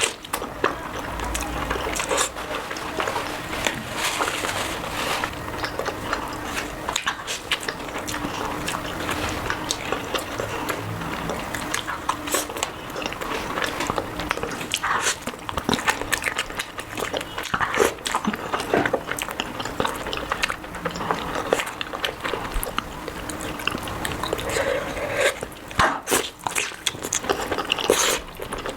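Close-miked eating sounds: steady chewing and lip smacking with a dense run of small wet clicks, as someone eats a curry meal.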